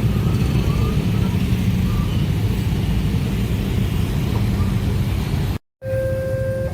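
Loud, steady low rumble of heavy vehicle traffic at a railway level crossing. After a brief cut about five and a half seconds in, a steady chord of several held tones begins.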